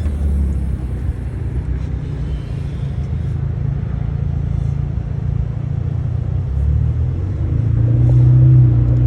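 Car engine running with a steady low rumble, a low hum growing louder near the end.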